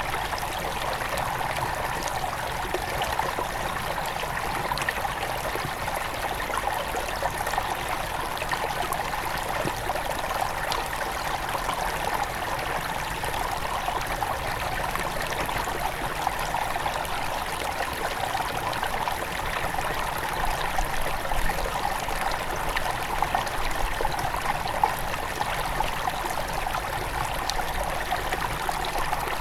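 Small headwater stream running and trickling over stones, a steady babble of water with many small splashes.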